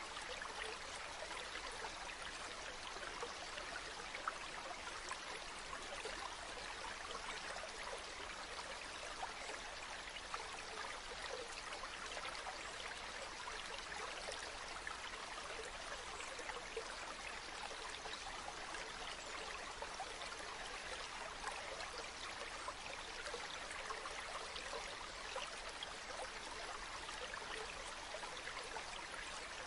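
Spring water running and trickling steadily, with a dense, constant patter of small splashes.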